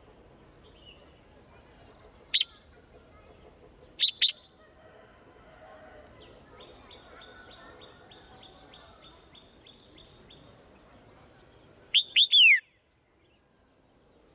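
Swallow chirping: a single sharp chirp about two seconds in, a quick pair about four seconds in, a faint run of rapid ticking calls at about four a second in the middle, and three loud downslurred chirps near the end, over a steady high-pitched hiss.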